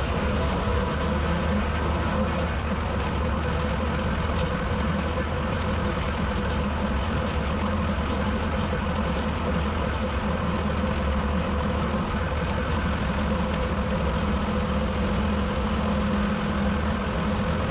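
Tractor engine running steadily while driving a bush hog rotary cutter, a continuous even drone with no change in pitch.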